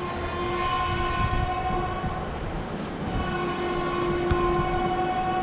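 Train horn sounding in two long held blasts, with a break of about a second between them.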